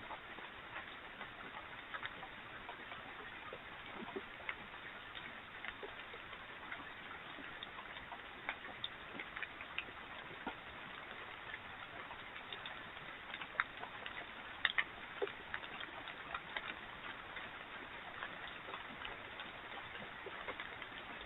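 Steady faint hiss with scattered, irregular light ticks and clicks, a few sharper ones in a cluster about two-thirds of the way through.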